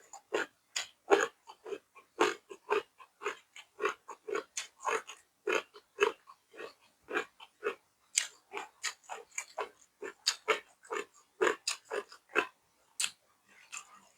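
A person chewing food with the mouth open, making loud, wet smacking sounds at about two to three a second.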